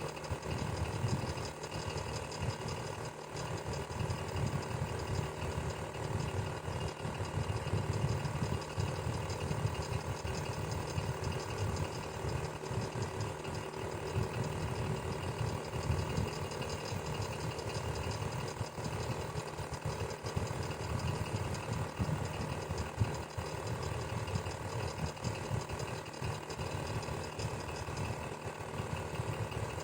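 Electric fan running steadily: a motor hum with several steady tones over a low, uneven flutter.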